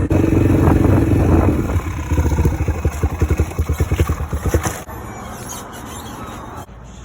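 Dirt bike engine running loud, then settling into a choppy idle of rapid firing pulses before cutting off just under five seconds in.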